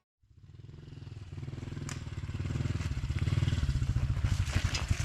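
An engine running with a rapid, even firing beat. It starts faint and grows steadily louder.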